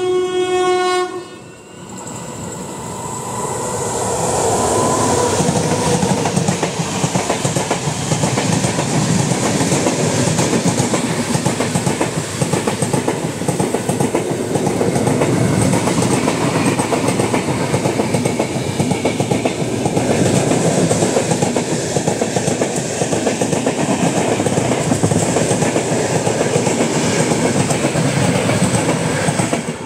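A train horn sounds until about a second in. Then an express train passing at full speed on the next track rises to a loud, steady rush with a fast clickety-clack of wheels over rail joints, heard from the open doorway of another moving train.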